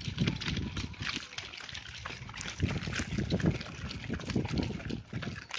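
Pushchair wheels rolling over a rough, stony path, a continuous crunching and rattling with frequent small clicks and low bumps, picked up through the buggy frame.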